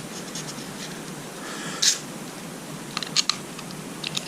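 Small clicks and a brief scrape of hands handling small metal distributor parts while a condenser and its wire are fitted into an engine distributor: a short scrape about two seconds in, then a few sharp light clicks near the end.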